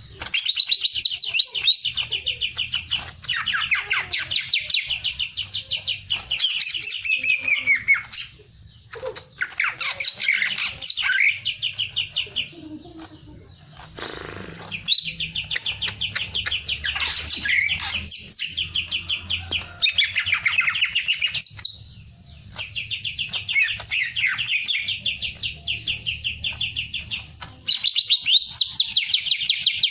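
A songbird singing energetically in long, rapid trills of quick repeated notes, phrases of several seconds broken by short pauses.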